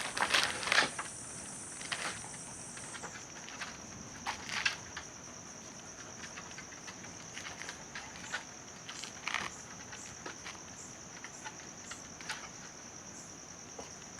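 Insects chirring in a steady, high, even tone, with a second, higher chirr that stops about three seconds in. Scattered light clicks and taps sound over it.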